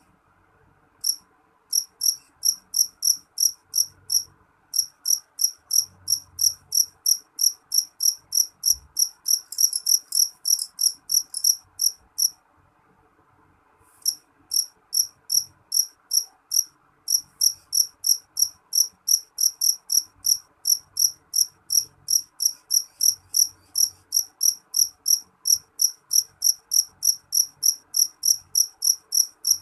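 Black field cricket (jangkrik jeliteng) calling loudly: a steady run of short, shrill chirps, about four a second. It breaks off briefly near the start and for about two seconds a little before the middle, then resumes.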